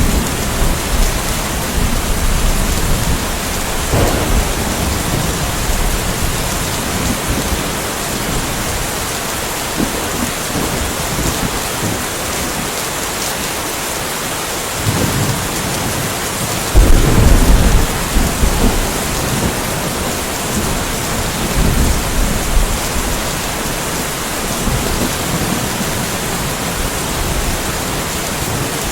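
Steady rain falling, with thunder rumbling low in the background several times; the loudest roll comes a little past halfway.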